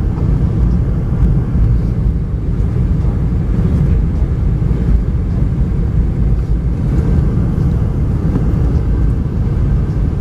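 Steady low cabin rumble inside a Boeing 717-200: airflow and its two tail-mounted Rolls-Royce BR715 engines, even throughout with no distinct events.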